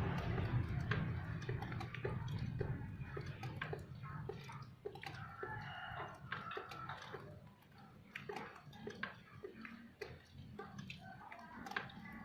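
Water dripping in small, fairly regular ticks, about two a second, as the noise of a passing vehicle fades out in the first couple of seconds. A few faint chirps are mixed in.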